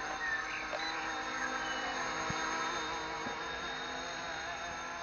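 Small electric RC ERA C189 MD500 scale helicopter in flight: a steady whine from its motor and rotor, with small shifts in pitch.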